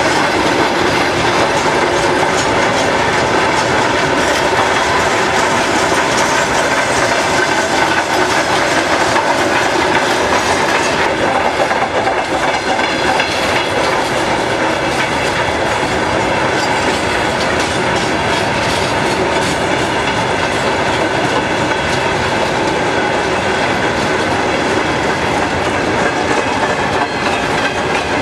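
Freight train of covered hopper wagons rolling past close by: a steady rumble of wheels with the clickety-clack of bogies over the rail joints. The sound turns a little duller from about eleven seconds in.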